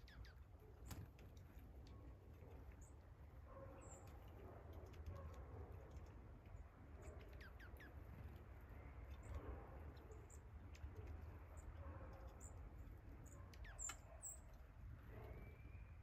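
Faint songbird chirps: short, very high-pitched chip notes scattered through, over a low steady rumble.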